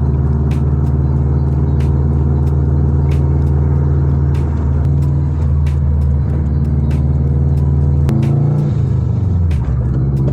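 Car engine running steadily under way, a loud low drone. About eight seconds in, the engine note drops and then climbs again.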